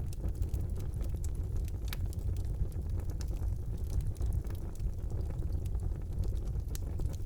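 Wood fire burning in a fireplace: a steady low rumble of flames with frequent sharp crackles and pops, one louder pop about two seconds in.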